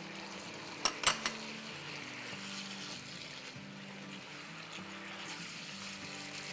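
Chicken pieces sizzling in a hot wok as they are stirred with a silicone spatula, with a few sharp clicks about a second in. Soft background music runs underneath.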